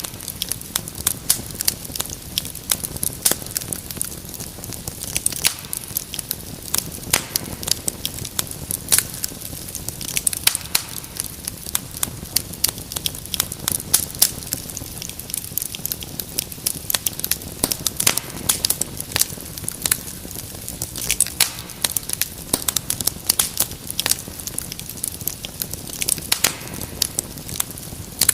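Wood fire crackling in a fireplace: many sharp, irregular pops and snaps over a soft steady rumble of flame.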